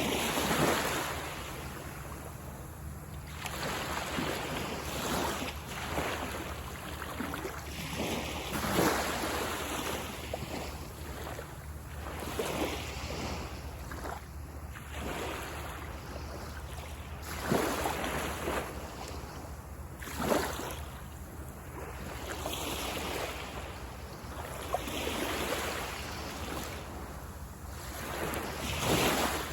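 Small sea waves breaking and washing up a beach, the surf noise swelling and ebbing every few seconds, with a few stronger surges.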